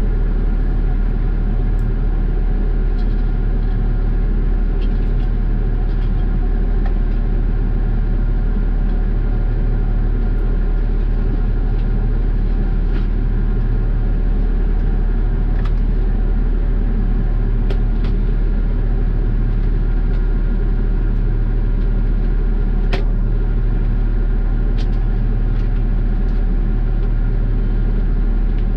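Garbage truck engine running steadily as the truck drives, a deep even drone with a few light clicks and rattles scattered through it.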